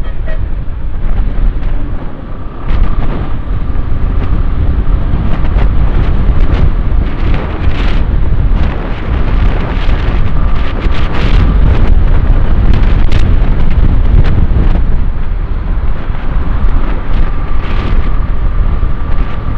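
Heavy wind buffeting the microphone of a motorbike rider at road speed, a loud gusting rumble, with a faint steady whine from the bike underneath. Strong wind is blowing against the rider.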